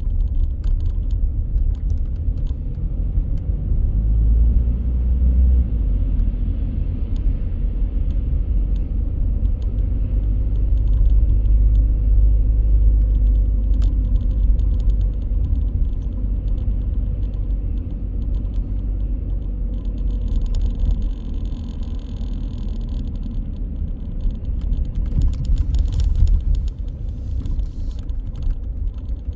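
Car driving along a city street: a steady low rumble of engine and tyre noise, with a brief hiss about two-thirds of the way through and a few light knocks near the end.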